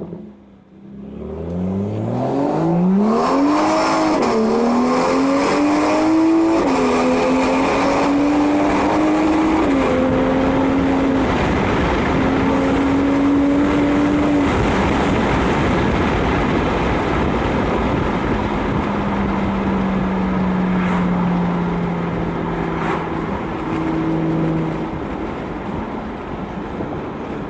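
BMW 135i's turbocharged straight-six through a straight-piped exhaust, accelerating hard: the engine note climbs steeply, with a few short dips that sound like gear changes. It then holds steady, and in the second half its note is lower and slowly falling.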